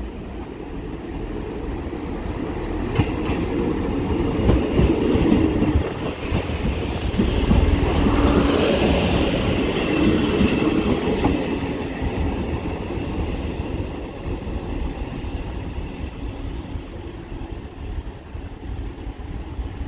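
A diesel multiple unit passing close by, rumbling with its wheels clacking over the rail joints. It builds up, is loudest about halfway through, then fades as it moves away.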